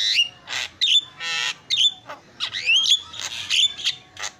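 Javan myna (jalak kebo) singing a rapid, varied string of short high whistles, rising glides and harsh rasping squawks.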